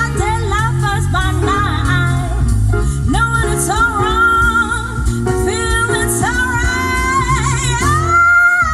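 A pop song with a sung melody over heavy bass, played through a car audio system with component speakers and a subwoofer. The music drops out briefly near the end.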